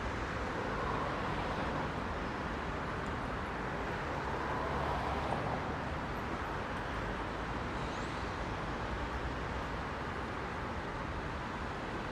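Heavy rush-hour road traffic: a steady wash of cars and buses passing, with a low engine rumble and tyre noise that swells slightly about four seconds in.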